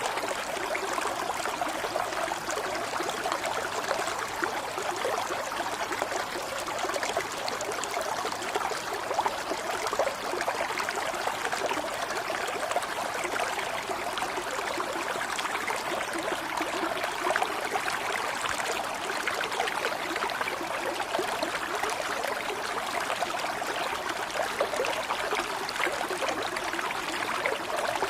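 Running water, like a small stream trickling and babbling over stones, steady and unbroken.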